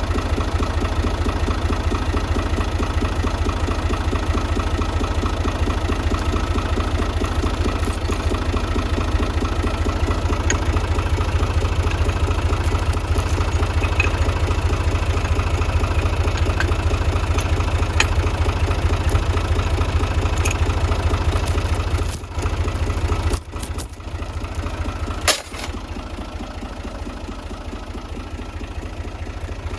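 Tractor engine running steadily with a low, even pulse. A few sharp clicks and brief dropouts come near the end, after which it runs a little quieter.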